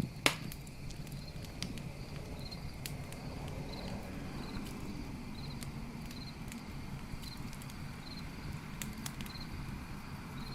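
Campfire crackling, with sharp pops scattered through it (the loudest just after the start) over a low steady rumble of the fire. A cricket chirps in short repeating trills, about one every second.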